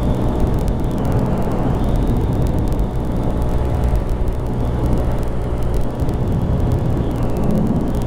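Honda Grom's 125 cc single-cylinder engine running steadily while riding, with a constant rushing noise underneath.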